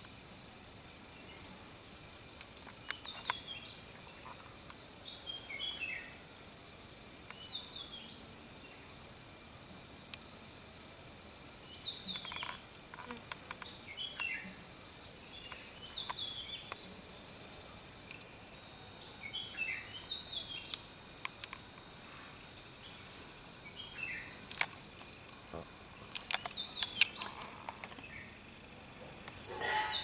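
Oriental magpie-robin calling: a loud, short, high note six times, a few seconds apart, with softer chirps and falling twittering phrases in between.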